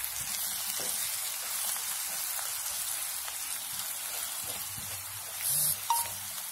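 Chopped onions and ground spices sizzling steadily in hot oil while being stirred with a wooden spatula, briefly louder about five and a half seconds in.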